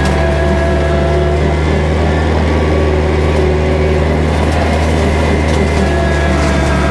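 Kubota tractor's diesel engine running loud and steady at a constant speed.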